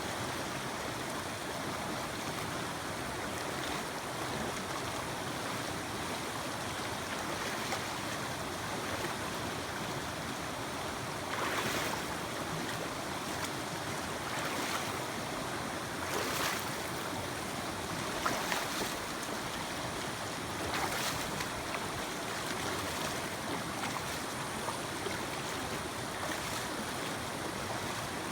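Mountain creek water rushing steadily, with a few brief louder swells of noise in the middle stretch.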